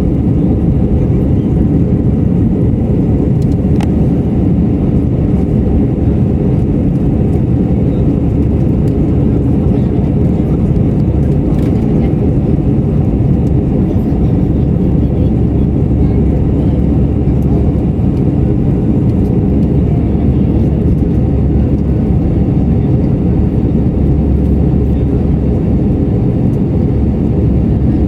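Airbus A320 engines and airflow heard inside the cabin during the climb after takeoff: a steady, loud low rumble.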